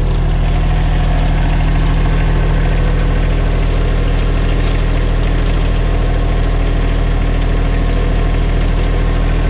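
New Holland Workmaster 25S compact tractor's three-cylinder diesel engine running at a steady speed.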